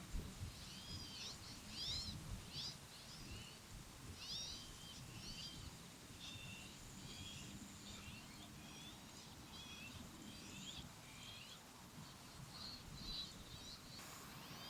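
Small birds chirping, a rapid, irregular string of short high chirps that runs on throughout, over a faint steady outdoor background.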